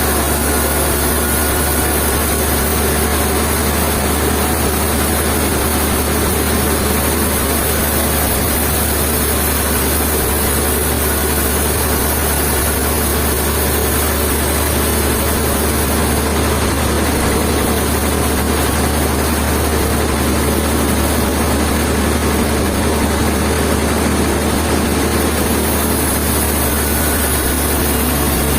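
A heavy engine running steadily at an even speed, a constant low hum with no change in pace.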